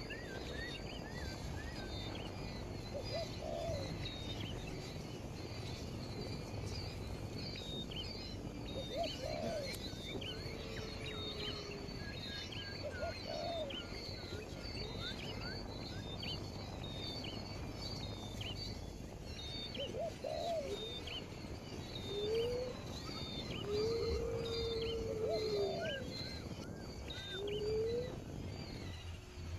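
Birds calling: a continual run of short, high chirps, with several lower hooting calls now and then.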